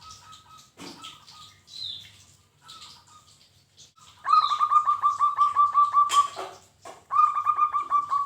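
Zebra dove (perkutut) singing: soft scattered coos, then from about halfway in a loud, fast run of about a dozen staccato coos at an even pitch lasting about two seconds, and a second run near the end. A sharp click comes just after the first run.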